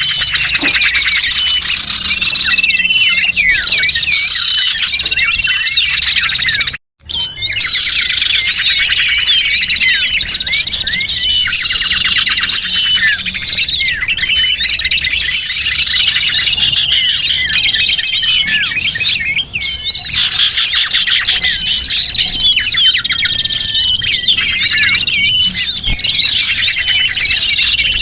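Dense, overlapping chirping and trilling of many small birds, played as a bird-lure recording, with a brief dropout about seven seconds in.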